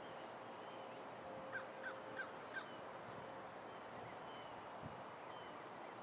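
A bird calls four times in a quick, evenly spaced run, short sharp notes, over a faint steady outdoor background.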